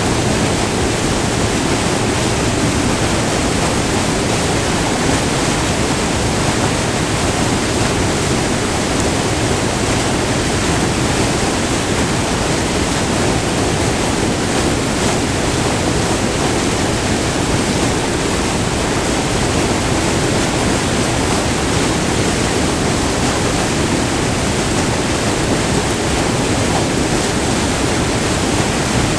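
Multi-tiered river waterfall, white water pouring steadily over rock ledges in a constant, even rush.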